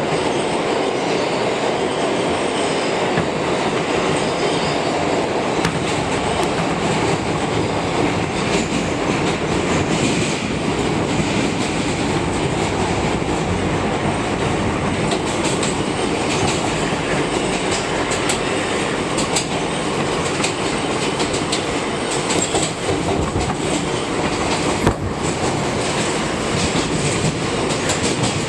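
R160B subway train running at speed, a steady loud rumble of wheels on rail and traction motors, with scattered clicks from the wheels over rail joints and a sharper knock near the end.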